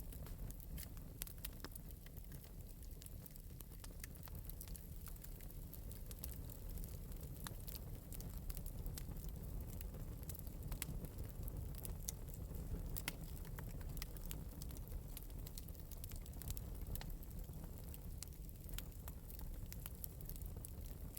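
Fire crackling in an open metal fireplace: irregular sharp pops and snaps over a steady low rumble.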